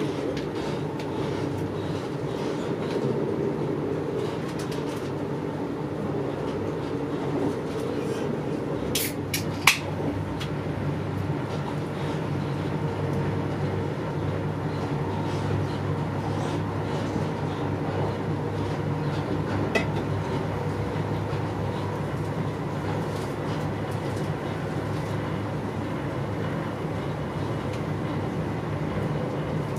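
Steady rumble of an InterCity 125 (HST) passenger coach running at speed, heard from inside the carriage: wheels on the track and the body's running noise. A few sharp clicks stand out about nine to ten seconds in.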